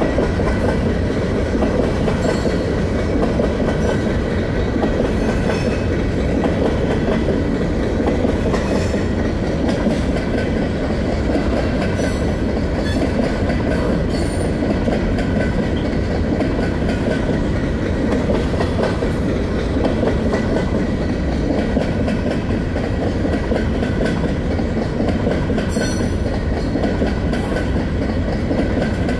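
Freight cars of a long train rolling steadily past at close range: a continuous rumble of wheels on rail, with faint high ringing tones over it.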